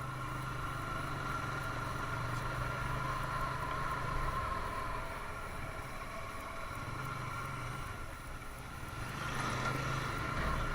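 TVS Apache RTR 160's single-cylinder engine running under way in road traffic. The engine note eases off briefly about eight seconds in, then picks up again.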